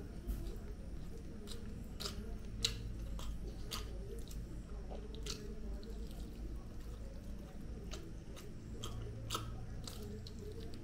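A person biting into and chewing tandoori chicken held in the hand: a run of irregular short mouth clicks and smacks of eating, over a steady low hum.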